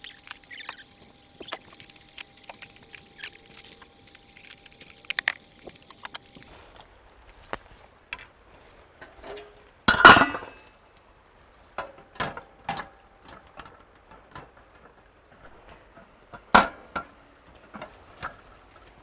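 Scattered clinks and knocks of hard objects being handled, the loudest about ten seconds in and another near the end. A faint steady hiss runs underneath for the first six and a half seconds, then stops suddenly.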